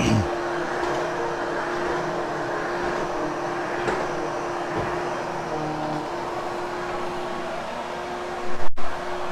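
Hoover Hushtone vacuum cleaner running steadily over carpet, a constant motor hum with an even whoosh of suction. Near the end comes a short louder bump and a momentary break in the sound.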